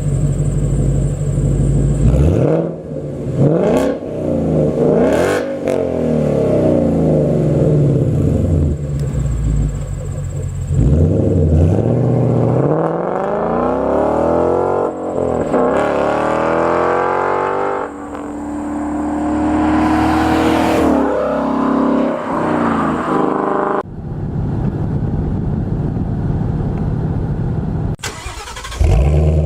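2015 Ford Mustang GT's 5.0 L V8 through a Corsa Sport cat-back exhaust, idling and then revved several times, the pitch climbing and falling back, with a short blip near the end.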